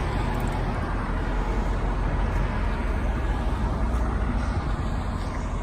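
2008 GMC 7500 bucket truck's gasoline engine running steadily with a low, even hum, quiet and smooth with no odd noises.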